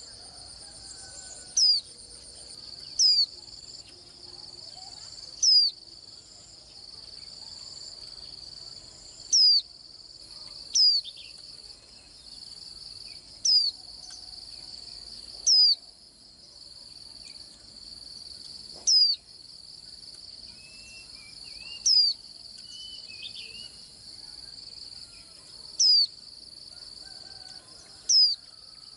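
Warbling white-eye giving single short, sharp, high call notes every one to four seconds, each a quick pitch sweep, over a steady high-pitched pulsing trill.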